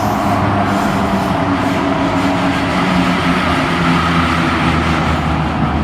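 Kawasaki-CRRC Sifang CT251 metro train running at speed, heard from inside the car: a loud, steady rumble of wheels on rail with a motor whine that rises slightly in pitch midway. This train set is reported to have flat wheels.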